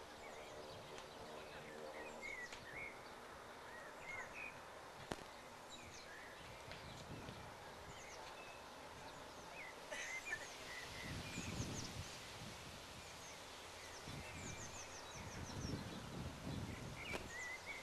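Small birds chirping and trilling repeatedly over faint open-air background noise. A low rumble swells up twice in the second half, and a faint steady hum fades out in the first couple of seconds.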